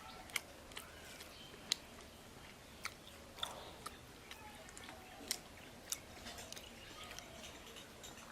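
A person chewing food close to the microphone, with sharp wet mouth clicks and smacks at irregular intervals.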